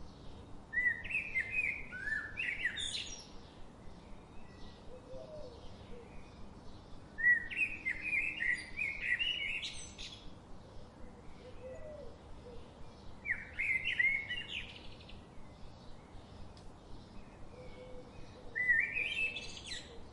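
A songbird singing four separate phrases about six seconds apart, each a quick run of high notes that climbs higher at its end, with fainter chirps from other birds around it.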